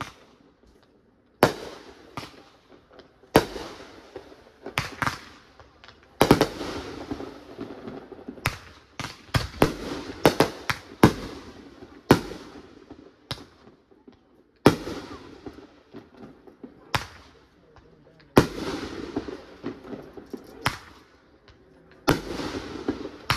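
Consumer aerial fireworks firing and bursting: sharp bangs one every second or two, with a quick run of several bangs about ten seconds in, each bang trailing off as it fades.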